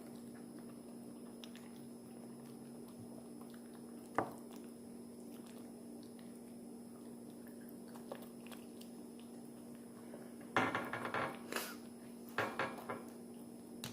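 Eating sounds: biting and chewing in a few short bursts near the end, over a steady low hum, with a single click about four seconds in.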